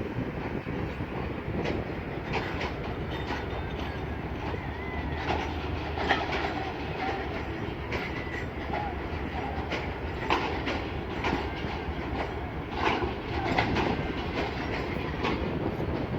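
Passenger train running on the track: a steady rumble with wheels clattering over the rail joints in irregular clicks.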